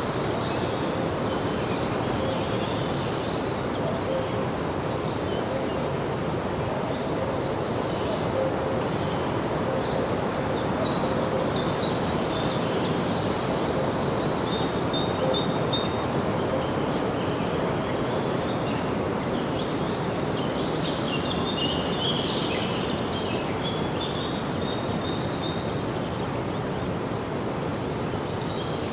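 Outdoor park ambience: a steady rushing background noise with small birds chirping and twittering at intervals throughout, busiest about a third of the way in and again past the middle.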